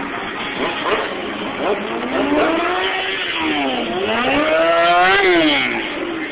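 Stunt motorcycle engine revving hard and easing off, its pitch climbing and falling twice; the second climb, peaking about five seconds in, is the loudest.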